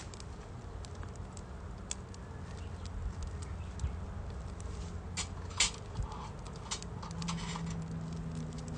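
Wood fire crackling in a small folding fire stove: scattered sharp pops and clicks over a steady low rumble.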